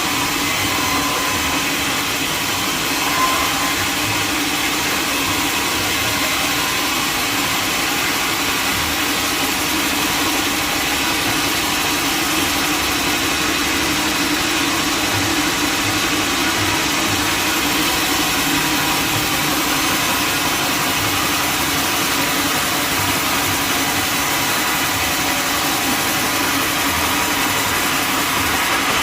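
Sawmill machinery running steadily, a continuous loud engine-like drone with no cut or pause.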